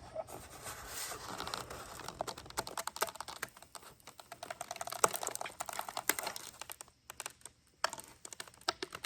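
Glued halves of a broken foam RC airplane fuselage being pressed and worked together by hand: a dense run of small, irregular clicks and crackles, with a brief pause near the end.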